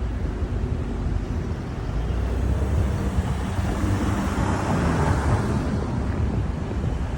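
Steady low rumble of a moving vehicle, with a hiss that swells in the middle and fades again.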